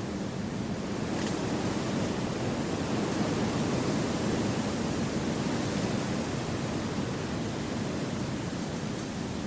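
Steady wind rushing through forest trees, swelling a little in the middle and easing off toward the end.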